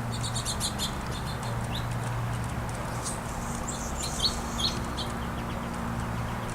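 Small songbirds chirping: a quick run of high notes in the first second, then scattered chips, with two louder ones a little past four seconds in. A steady low hum runs underneath.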